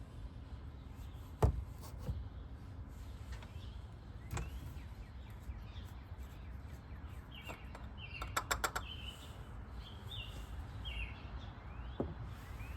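Birds chirping in short calls over a low outdoor rumble, with a single sharp knock about a second and a half in and a quick rattle of clicks near the middle.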